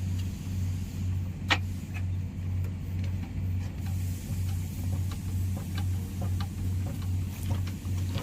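A machine running with a low hum that pulses evenly about twice a second, with one sharp click about a second and a half in.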